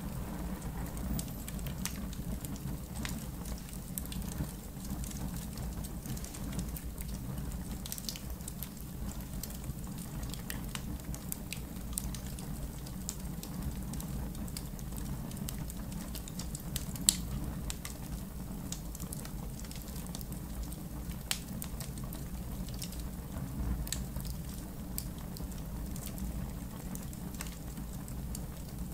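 Wood fire crackling: irregular small pops and snaps over a steady low rumble, with one sharp, louder pop a little past halfway.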